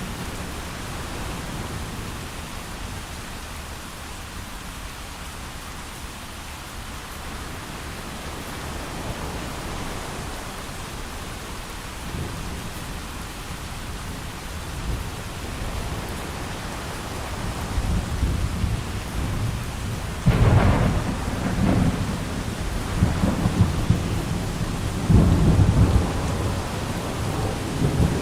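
Steady rain with thunder: a low rumble builds about two-thirds of the way in, breaks into a loud crack and rolls on in repeated heavy peals through the last several seconds.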